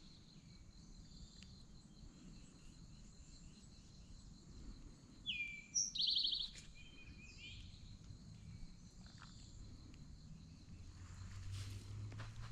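Wild songbirds singing in the woods, the loudest a song about five seconds in: a downslurred note followed by a fast trill. A steady high insect hum runs underneath, and a low hum comes in near the end.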